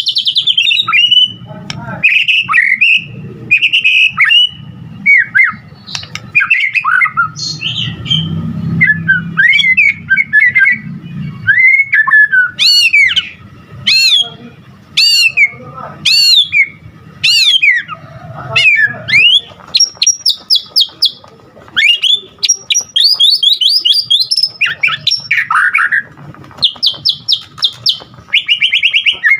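White-rumped shama singing a long, varied song packed with mimicked phrases (isian): whistles and warbles, a run of about five steep downward-sweeping notes around the middle, then fast rattling trills near the end.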